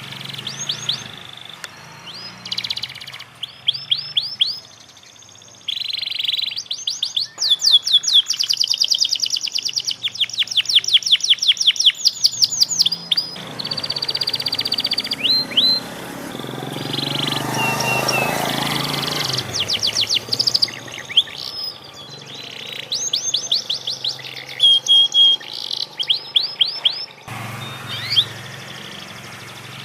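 A panda-variety domestic canary singing while learning its song: phrases of fast trills built from rapidly repeated rising notes, broken by short pauses. Around the middle, a broad rushing noise swells and then fades.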